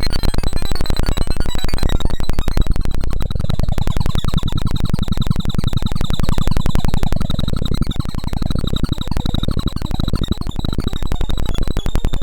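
Synthesized tones from a sorting-algorithm sonification: each array comparison or access sounds a short blip pitched by the value it touches, played so fast that they run together into a dense, chattering buzz. Through the middle the pitches sweep up and then back down as the algorithm works across the array.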